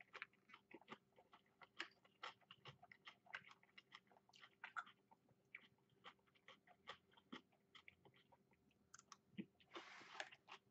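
Close-up chewing of takeout food, faint: quick, irregular wet mouth clicks and small crunches, several a second, with a brief hiss near the end.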